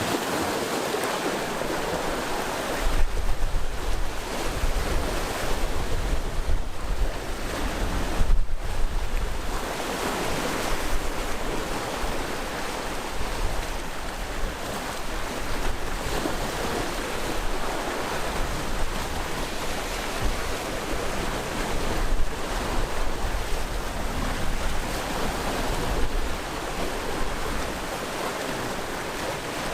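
Sea waves washing against the shore in a steady rush with irregular swells. From about three seconds in until near the end, wind buffets the microphone with a low rumble.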